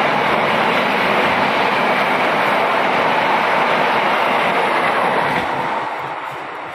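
Passenger train coaches running past close by: a steady, loud rumble of steel wheels on the rails. It fades from about five and a half seconds in as the last coach goes by and the train draws away.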